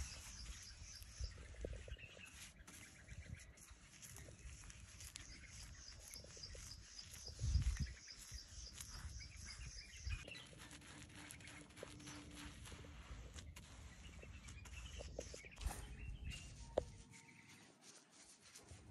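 Birds chirping in quick, repeated high notes over low outdoor background noise, with a louder low thump about seven and a half seconds in.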